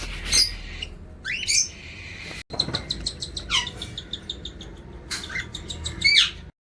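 Pet parrots calling: a series of short chirps and whistles sliding up or down in pitch, with a rapid run of ticking chirps in the middle and the loudest call near the end, then the sound cuts off abruptly.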